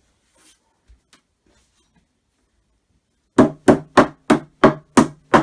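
Seven quick, loud knocks on a wooden flat-pack cabinet panel, about three a second, banging a part into place. Each knock rings briefly in the wood.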